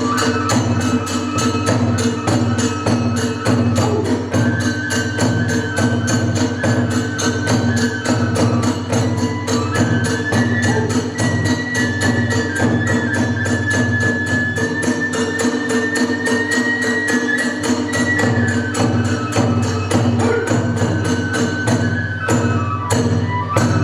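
Kagura festival music: a flute plays a high, held melody over a fast, even beat of drums and small hand cymbals, about four strokes a second.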